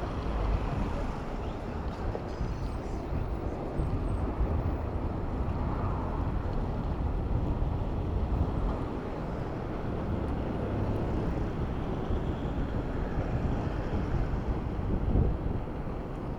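Wind buffeting the microphone of a moving bicycle, with the rumble of city road traffic underneath.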